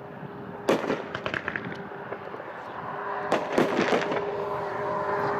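A 500-gram consumer fireworks cake with 2-inch tubes firing: sharp reports about 0.7 s in, followed by a run of crackles, then another cluster of reports around three and a half seconds in. A steady hum runs underneath and grows louder near the end.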